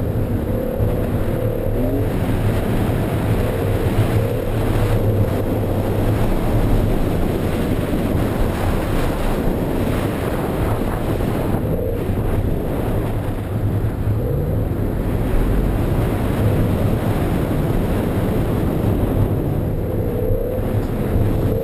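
BMW E46 M3's straight-six engine running hard in second gear, its revs wavering up and down as the car is held in a drift, heard from inside the cabin.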